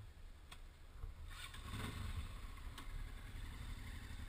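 Motorcycle engine running at idle, a steady low rumble heard from the rider's seat, with a couple of sharp clicks and a brief louder swell midway.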